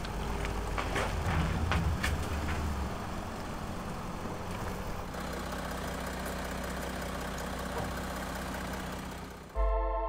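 Car engine running steadily, a little louder with a few clicks over the first couple of seconds, then even. Music with sustained synth notes begins just before the end.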